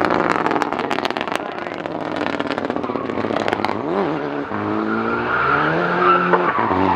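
Rally car engine revving, with a rapid crackle of exhaust pops in the first second or so. A sharp throttle blip comes about four seconds in, and the revs climb again toward the end.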